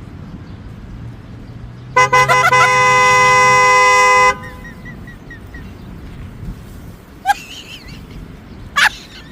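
A loud horn blast: a few quick stuttering toots, then a long steady blare lasting about two seconds, as a chord of several tones. Later come two short, sharp, rising cries.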